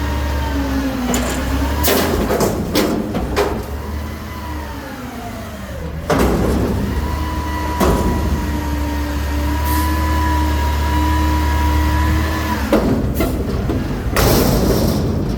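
Garbage truck's diesel engine running, dropping back, then revving up and holding high for several seconds before falling off. Several loud metal bangs and clanks come along with it, a cluster early on and another near the end.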